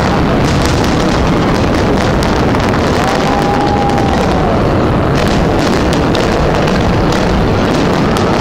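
Fireworks bursting in quick succession: a dense run of bangs and crackles over a continuous rumble, with a brief faint whistle about three seconds in.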